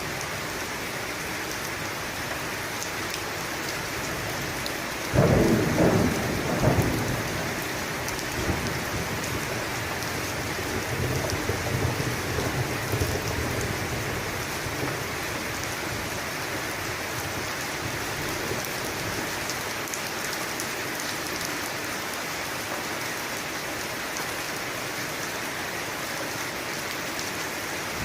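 Steady heavy rain falling, with a sharp thunderclap about five seconds in that rolls on for a couple of seconds, followed by a softer rumble of thunder a few seconds later.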